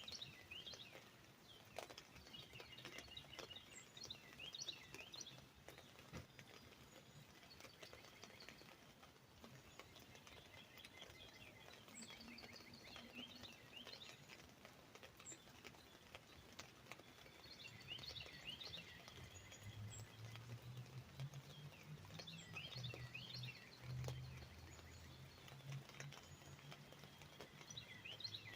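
Songbirds chirping in short bursts of quick downward whistles, with scattered raindrops tapping on an umbrella. A faint low hum rises in the background during the second half.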